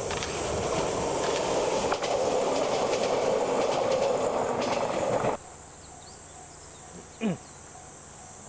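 A train running past on the rails with a steady rumble and rail noise, cutting off suddenly about five seconds in. Insects then chirp steadily, with one short falling sweep near the end.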